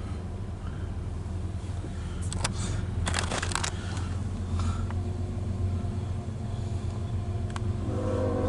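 A loaded coal train going by, heard as a steady low rumble, with a cluster of rattles and clicks about two to four seconds in.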